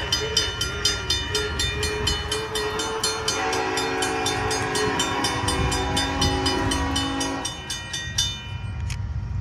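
Freight train going by with a steady low rumble while a crossing bell rings about four strikes a second, stopping shortly before the end. About a third of the way in the locomotive sounds a multi-note horn chord, held for some four seconds.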